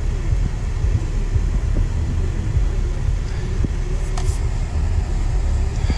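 Steady low rumble in the cabin of a 2025 Chevrolet Tahoe High Country while it runs, with its windshield wipers on low speed. A short high squeak about four seconds in.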